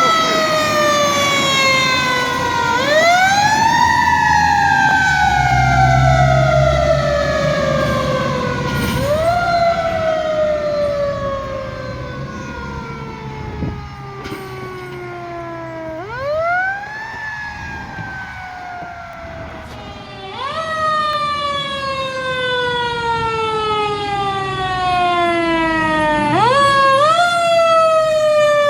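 Fire truck siren wailing. Each cycle rises quickly and falls slowly, about five times, with two quick rises close together near the end. A deep rumble from the truck comes a few seconds in.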